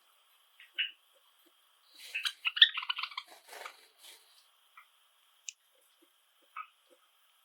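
Pet Java sparrows calling with short, separate high chirps, and about two seconds in a rapid run of clicking and chirping song notes lasting about two seconds.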